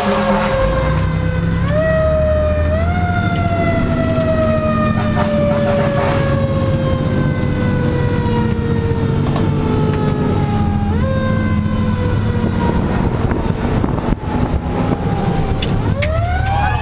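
A fire engine responding with its siren wailing. The siren's pitch slowly winds down, is pushed back up in short steps a few times, then winds up again near the end. The truck's engine drones steadily underneath.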